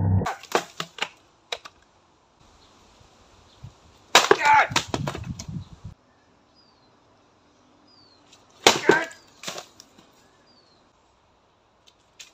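Dry wooden boards cracking and snapping as they are broken by karate strikes with hands and feet, in three bursts of sharp cracks: at the start, about four seconds in, and near nine seconds in.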